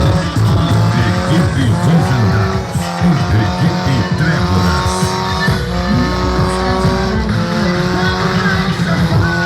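A car's tyres squealing in a burnout while its engine revs, over loud funk music with heavy bass.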